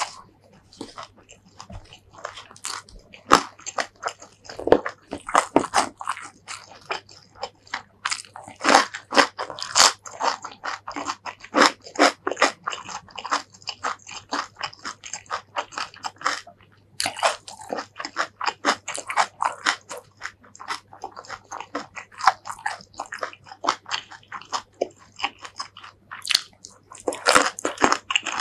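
Close-miked chewing of food: wet mouth clicks and crisp crunches in quick succession, pausing briefly about halfway through.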